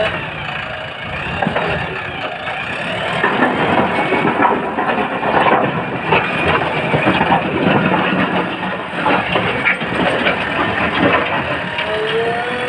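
JCB backhoe loader's diesel engine running steadily while the machine works, with a few short knocks over it.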